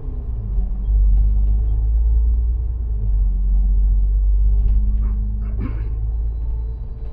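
City bus underway, a steady low engine and road rumble with a faint engine hum above it. A brief clatter comes a little before the end.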